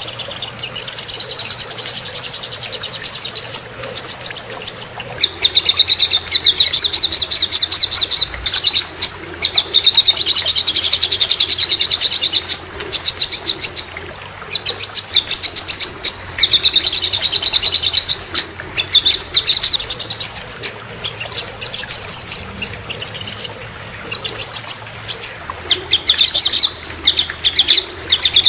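Small songbird singing a string of rapid, high-pitched trills in phrases of one to three seconds with short breaks between them: a masteran tutor recording of the kind used to train caged songbirds.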